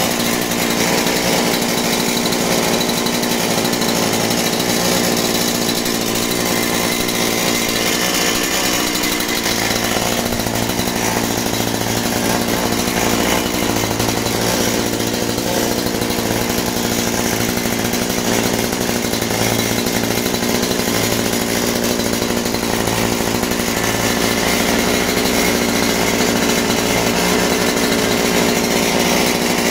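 Scheppach CSP41's 41 cc two-stroke chainsaw engine running steadily, warming up after its first start.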